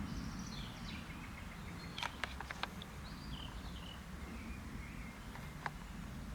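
Birds calling outdoors: short chirps and gliding whistles, over a steady low rumble. A quick cluster of sharp clicks comes about two seconds in, and one more near the end.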